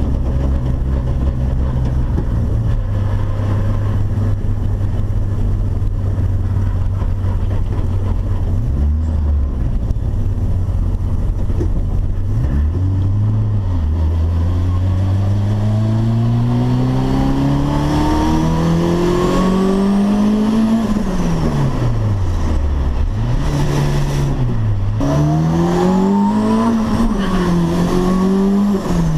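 Turbocharged VW Gol engine holding a steady note, then revving up in one long rising pull as the car accelerates hard. The pitch falls sharply about two-thirds of the way through, then climbs and falls several more times in shorter runs near the end.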